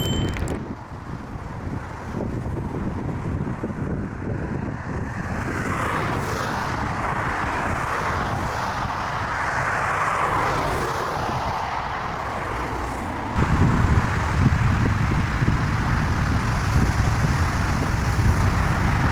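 Aircraft engines passing close by a runway: the engine noise swells to a peak and fades, with wind buffeting the microphone. About 13 seconds in, the sound cuts abruptly to a heavy low rumble with wind.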